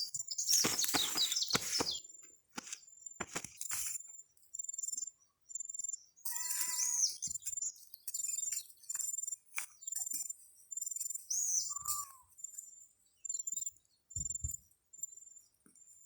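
Birds calling in forest: a thin, high note repeated about once a second, with two short downward-slurring calls, one midway and one near the end. A burst of rustling noise, the loudest sound, comes at the start.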